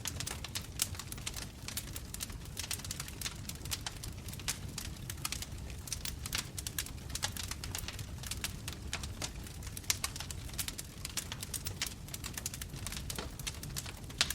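Bonfire burning, its wood crackling and popping in quick irregular snaps over a low steady rumble of the flames.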